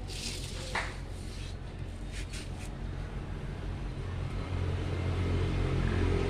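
A steady low mechanical rumble, like an engine running, with a few short scratchy clicks in the first three seconds; it grows a little louder near the end.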